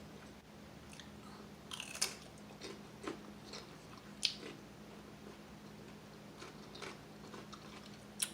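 Close-up eating sounds of crispy refried chicken wings being bitten and chewed: sharp crunches scattered through, the loudest about two seconds in, near four seconds and at the very end, over a faint low hum.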